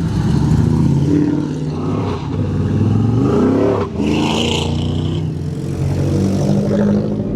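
Car engines revving at a car meet: one rises in pitch and cuts off sharply about four seconds in, followed by a short hiss, with other engines running under it.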